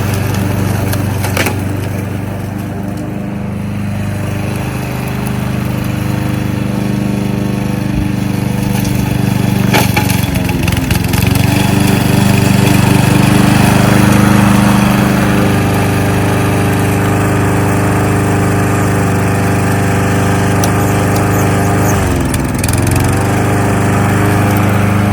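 Kohler XT-675 single-cylinder engine on a Yardworks front-wheel-drive push lawnmower running steadily while mowing. Its speed dips briefly a little over twenty seconds in, then recovers.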